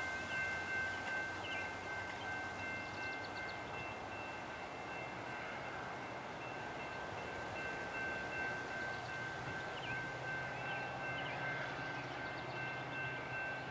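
Distant Northstar commuter train's diesel locomotive approaching, a low hum that grows stronger from about halfway. Over it runs a steady high ringing of several tones together, and a few short bird chirps.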